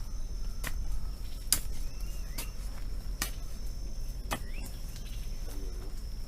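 Crickets or similar insects trilling in a steady high tone, with sharp clicks about once a second and a few faint bird chirps.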